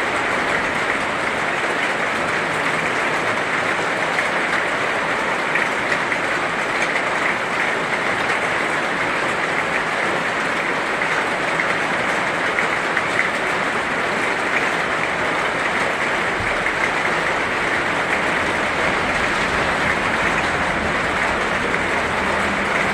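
Heavy rain falling steadily: a dense, even hiss of countless drops with a fine patter.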